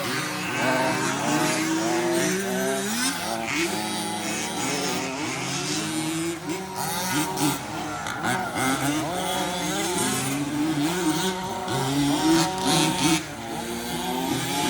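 Several remote-control 4WD racing trucks running together, their motors whining and rising and falling in pitch as they accelerate and slow around the track.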